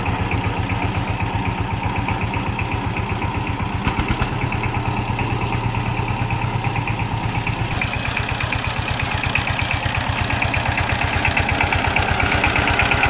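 Single-cylinder diesel engine of a 12-horsepower power tiller running steadily with an even, rapid firing beat.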